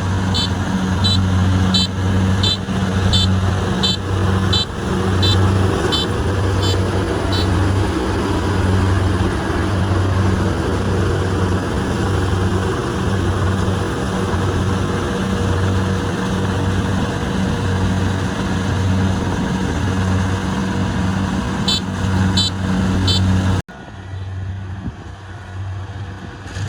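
Kubota rice combine harvester's diesel engine running with a low, pulsing drone. Quick regular clicking, about three a second, rides over it for the first several seconds and again near the end. The sound drops suddenly quieter near the end.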